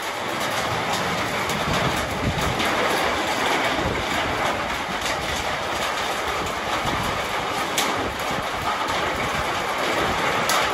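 Heavy rain falling steadily on a corrugated sheet roof and the surroundings, a dense unbroken hiss with a few sharp taps of drops.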